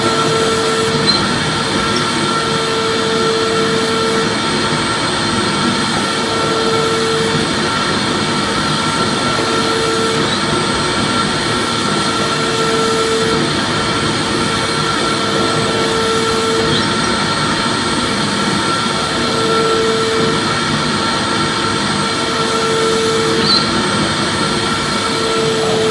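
Vacuum cleaner motor running steadily with a loud, even rushing noise, played as soothing background noise for a baby. A lower hum fades in and out every second or two over the constant whir.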